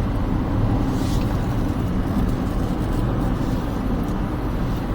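Smart car on the move: steady engine and road rumble.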